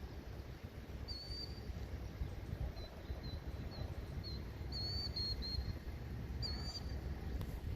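A small bird chirping, a string of short high notes, some in quick runs, over a steady low rumble.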